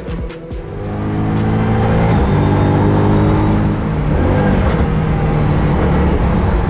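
Car engine under hard acceleration, its note climbing in pitch with brief drops about two and four seconds in, like gear changes.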